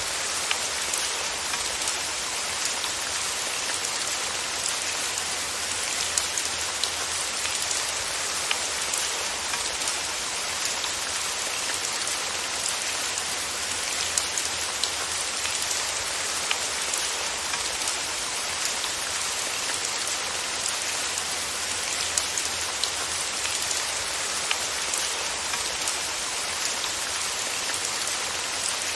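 Steady rain falling on a surface, an even hiss thick with many small drop patters, with no thunder.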